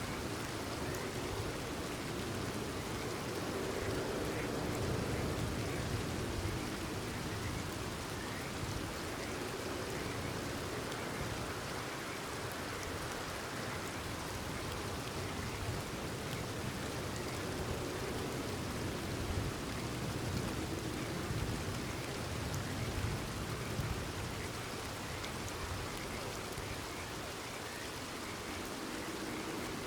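Steady rain falling and pattering on surfaces, with frogs croaking faintly in the background.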